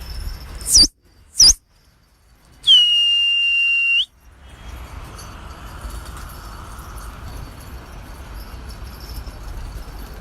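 Loud, shrill whistling: two short whistles that fall in pitch, then one long steady whistle lasting about a second and a half, then steady background noise.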